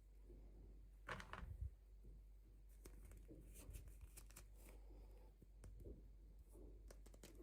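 Near silence with faint handling of toy packaging: a short rustle about a second in and a few light clicks.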